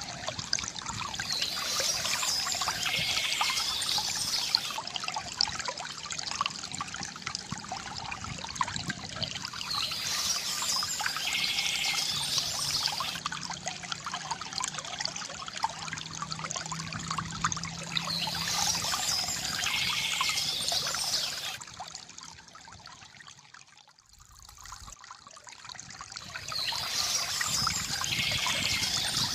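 Water trickling and pouring from a bamboo fountain spout, swelling and easing in a cycle about every eight to nine seconds, and dropping almost away for a moment about three-quarters through.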